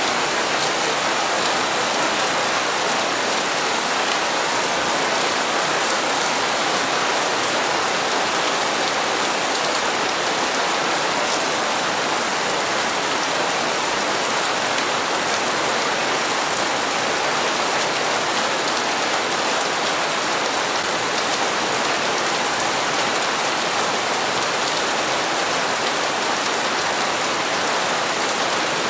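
Steady rain falling and pattering on surfaces, with faint scattered drip ticks.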